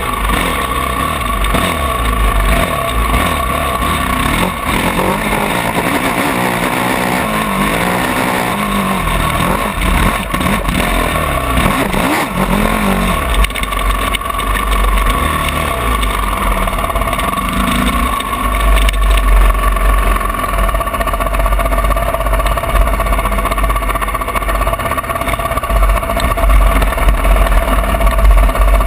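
Honda CRF450 four-stroke single-cylinder motocross bike engine running hard, its pitch rising and falling as the throttle is worked, with the most revving around the middle.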